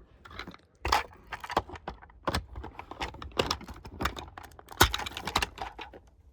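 Handling noise of a diecast toy truck and trailer being turned over in the hands: irregular clicks, taps and light rattles, with two sharper knocks about a second in and near five seconds in.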